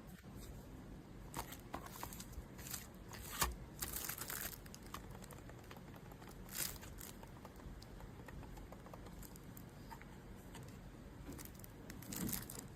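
Handling noise: crinkling and rustling, broken by scattered light clicks and taps, loudest about three and a half to four and a half seconds in.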